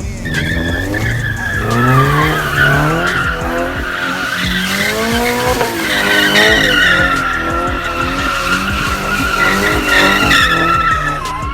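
Car engine revving up and down repeatedly while spinning tyres screech in a long, sustained high squeal, typical of a car doing a burnout or donuts.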